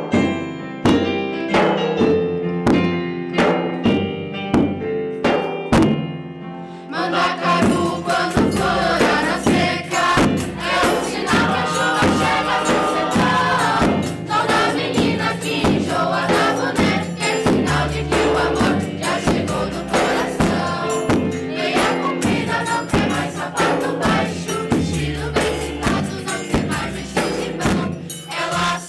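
Live music: a plucked guitar line, then from about seven seconds in a choir singing with instrumental accompaniment.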